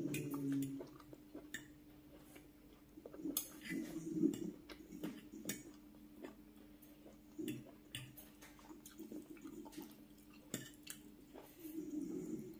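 Close-miked chewing of soft rice and vegetable curry in bursts, with a steel spoon and fork clicking and scraping against a glass bowl. A faint steady hum runs underneath.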